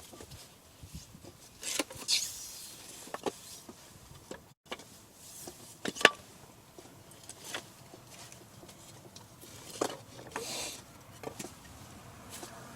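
Campfire of dry firewood crackling, with irregular sharp pops, the loudest about six seconds in, and a couple of brief hissing flares.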